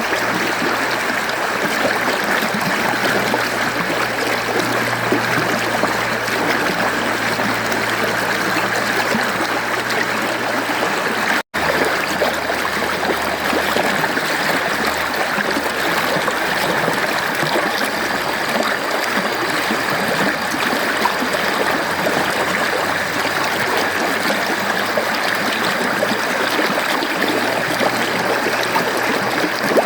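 Mountain stream flowing over rocks: a steady rush of running water with light gurgling, broken once by a split-second gap about eleven seconds in.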